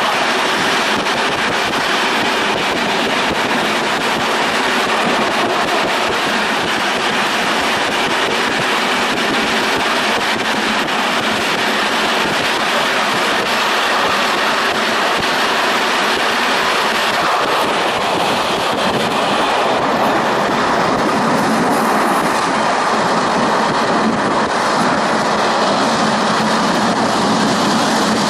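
Passenger train running along the track, heard from inside the carriage: a steady rolling noise of wheels on rails that shifts slightly in character a little past halfway.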